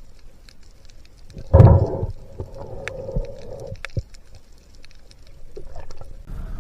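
Underwater sound: scattered faint clicks and crackles, with a sudden low gurgling rumble of water about a second and a half in that fades out over the next two seconds.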